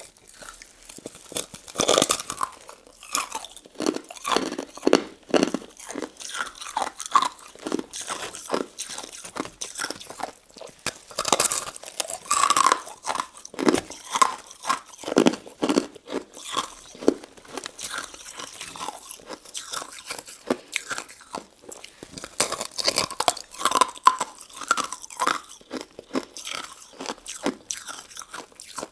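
A person biting and chewing a crunchy crystal-ice and citrus-jelly dessert: quick crisp crunches one after another, in louder clusters at each bite.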